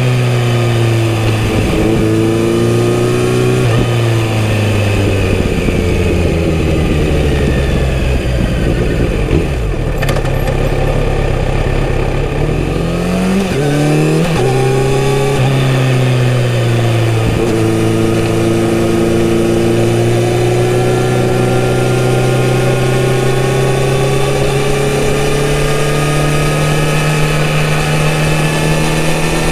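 Kawasaki Z900RS inline-four engine through a full-system exhaust, ridden on the road. The engine note drops away as the bike slows in the first seconds. Around the middle it revs up hard with several quick upshifts, then settles into a steady cruise with its pitch slowly rising.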